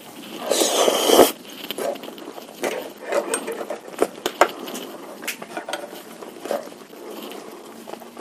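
Close-miked eating of bakso meatballs in spicy broth: a loud, hissy burst about half a second in, like a slurp of broth, then chewing with small wet clicks and taps of utensils.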